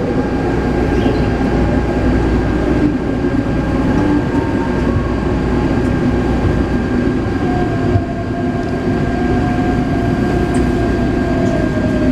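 Taipei Metro C381 electric train running, heard from inside the carriage: a steady rumble of wheels and motors with a constant high whine from the traction equipment. In the second half a motor tone slowly falls in pitch.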